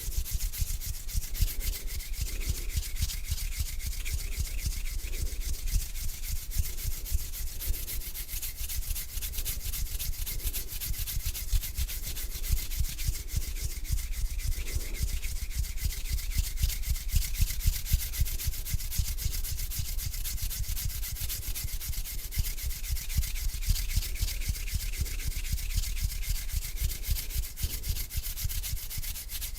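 Hands rubbing together slowly close to the microphone: a continuous dry, crackly rustle of skin on skin.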